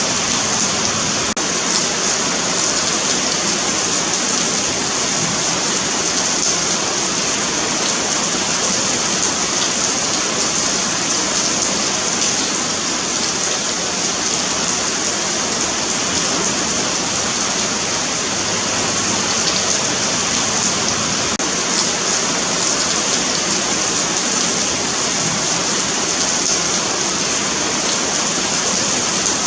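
Steady, continuous rain falling on a pavement: an even hiss of drops spattering on the hard surface.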